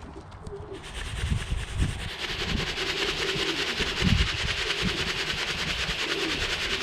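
Wind rushing and buffeting against the microphone, a hiss that swells about a second in and holds, with low gusty thumps underneath; pigeons coo faintly in the background.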